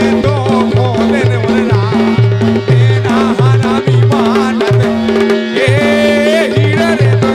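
Instrumental interlude of Indian folk dance music: a brisk, repeating drum rhythm under a melody line that bends and slides in pitch, over a steady held drone note.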